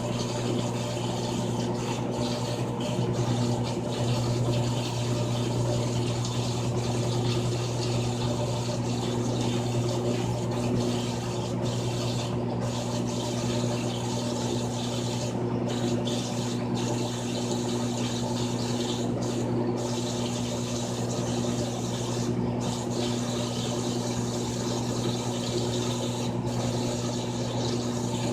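Frigidaire Gallery Series top-loading washing machine running: a steady motor hum under an even wash of water noise.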